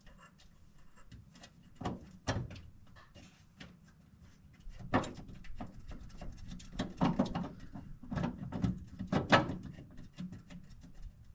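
Irregular small clicks and knocks of metal parts being handled while nuts are hand-started onto the shifter box mounting, with heavier knocks about two, five, seven and nine seconds in.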